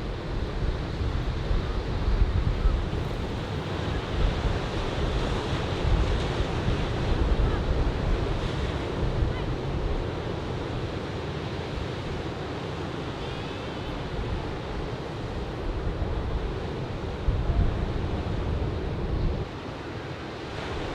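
Ocean surf from a typhoon swell breaking and washing on a sandy beach, with wind buffeting the microphone in gusts.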